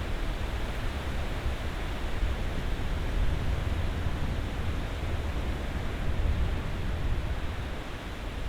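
Ocean surf washing in a continuous rush of noise, heaviest in a low rumble, swelling gently with no single wave break standing out.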